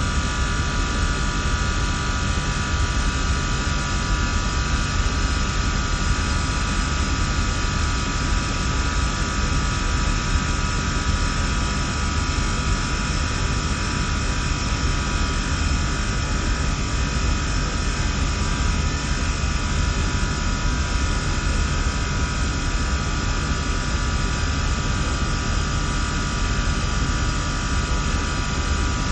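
HVAC chiller and fan-coil equipment running steadily: an even rush of air over a low rumble, with a few constant whining tones.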